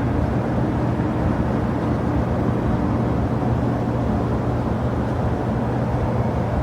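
Steady rumble of jet aircraft engines at the airport, an even noise with a low, constant hum underneath.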